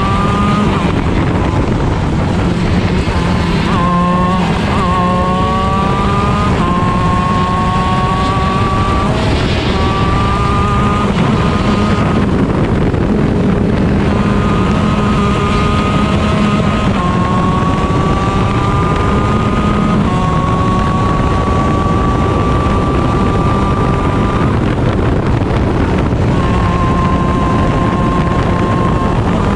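Two-stroke 125cc Honda shifter kart engine at racing speed, heard onboard: its pitch climbs steadily through each gear, then drops or breaks off every few seconds at shifts and lifts, with steady wind noise underneath.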